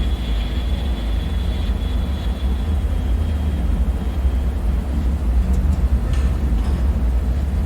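Dark bunker ambience: a steady deep rumbling drone, with a faint high ringing tone that fades out about halfway through and a few faint metallic ticks near the end.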